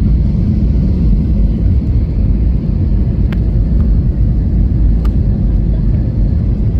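Steady low rumble of airliner cabin noise, jet engines and airflow, as the aircraft comes in to land. Two faint clicks about three and five seconds in.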